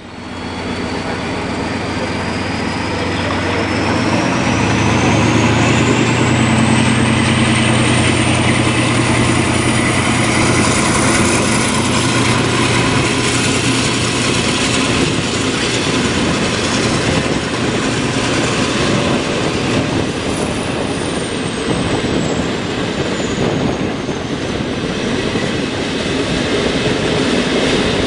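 Train running on the rail, heard at an open carriage window beside a double-deck passenger train on the next track: a loud rumble and clatter of wheels on rail. A high whine climbs in pitch over the first eight seconds or so and falls again in the last third.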